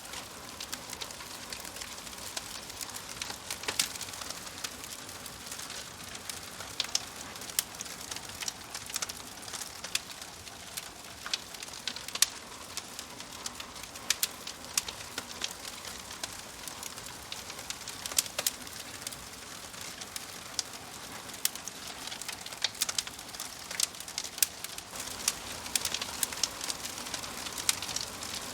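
Wood fire burning in a fireplace: a steady hiss with frequent, irregular sharp crackles and pops from the burning logs.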